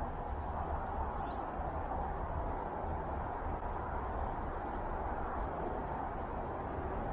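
Steady wind rumble on the microphone and a constant hum of riding noise from a bicycle on the move, with a few faint, brief high chirps, the clearest about four seconds in.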